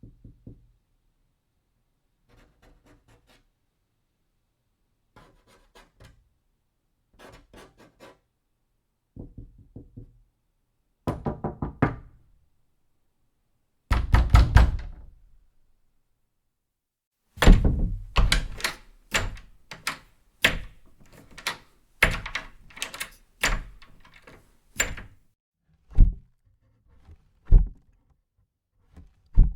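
Knocking on a wooden door, in short groups of raps that grow louder. About halfway through comes a metal door latch rattling and clicking as it is opened and closed repeatedly, and near the end a wooden lid shuts twice with dull thuds.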